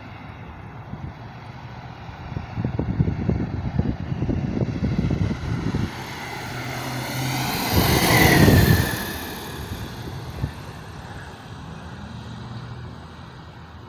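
Light propeller airplane passing close by. It grows louder to a peak about eight seconds in, then drops in pitch and fades as it goes away. Wind buffets the microphone a few seconds earlier.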